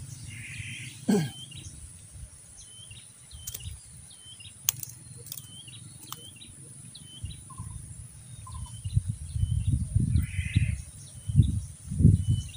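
A bird repeats short chirps every second or so over a steady high insect drone. A loud falling sound comes about a second in, and loud low rumbling bursts come near the end.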